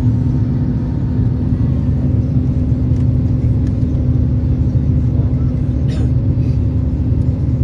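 Jet airliner cabin noise during the climb after takeoff: a steady, loud rumble of engines and airflow with a constant low hum.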